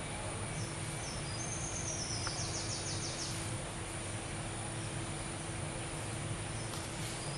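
Steady outdoor background noise with a high, rapidly pulsed animal call, heard once about two seconds in and starting again near the end.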